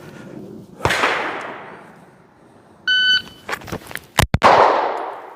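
A shot timer beeps briefly near three seconds in. About 1.3 seconds later a Walther PDP pistol fires a sharp, loud shot on the draw, after a couple of small clicks. An earlier gunshot with a long echoing tail sounds about a second in.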